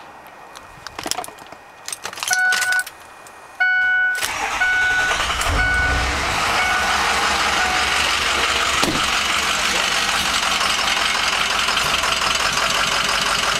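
Ford F-250 diesel truck being started: a few clicks and a repeating dashboard chime, then the engine cranks and fires about four seconds in and settles into a steady idle, the idle the owner calls rough.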